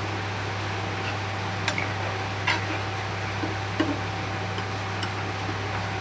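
A few light, sharp taps of a cooking utensil against a pan, spaced about a second apart, over a steady low hum and hiss.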